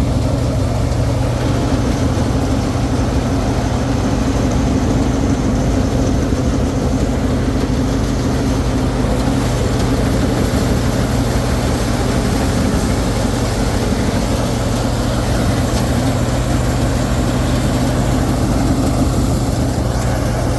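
Combine harvester engine running steadily, a constant low hum with no change in speed.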